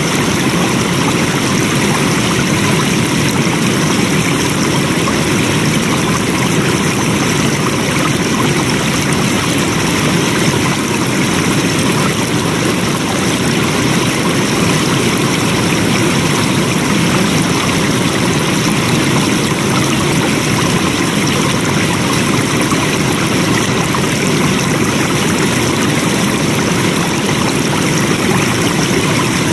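Flowing water: a steady, continuous rush of a stream, unchanging throughout.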